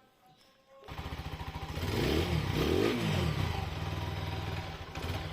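TVS Apache RTR 4V's single-cylinder engine starting about a second in, given two quick blips of the throttle, then idling steadily. The seller calls the engine sound excellent and fresh.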